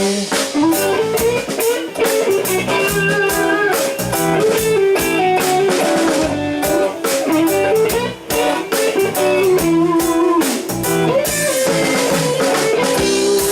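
Live rock band playing an instrumental break: a lead electric guitar melody over bass and drum kit.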